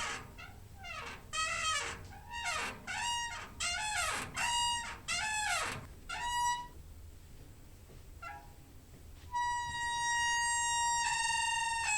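Door hinge squeaking. A quick run of short creaks that bend in pitch, then a brief faint one, and from about nine seconds in one long drawn-out squeak that drops a step in pitch near the end.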